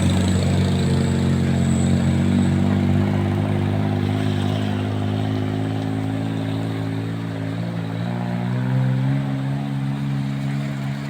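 A vehicle engine pulling steadily up a slope, its drone drifting slowly in pitch and rising a little near the end, over a steady hiss of heavy rain.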